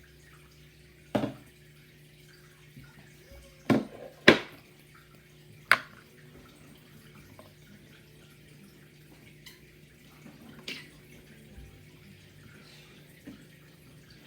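Scattered sharp clicks or pops, the loudest a close pair about four seconds in, over a low steady hum.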